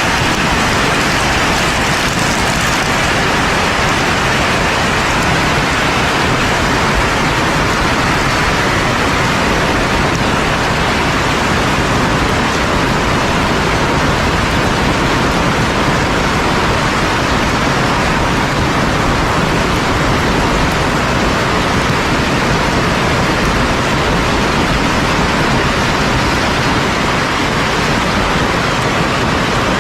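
Heavy rain pouring steadily, a loud even hiss that does not change, with no thunderclap in it.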